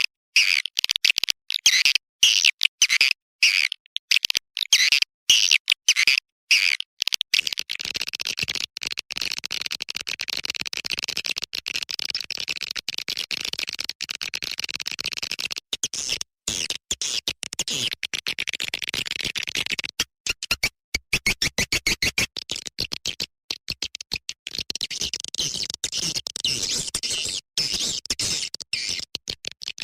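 Swiftlet call-lure recording: dense, rapid, high-pitched twittering chirps of swiftlets. They are choppy with many abrupt short breaks in the first several seconds, then run on more continuously.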